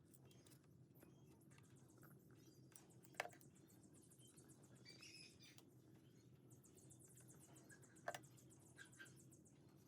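Near silence with faint light scratching and ticking, broken by two sharp clicks, one about three seconds in and one about eight seconds in.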